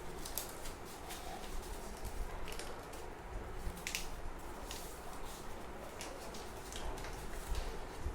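A sheet of paper being handled, folded and creased by hand: soft rustles and scattered short crisp crinkles over a steady background hiss.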